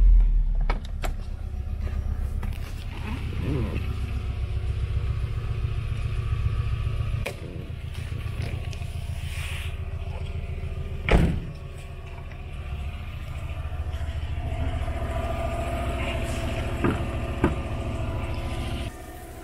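Subaru Legacy GT wagon's turbocharged flat-four engine idling steadily. There is a single thump about eleven seconds in and a few light clicks.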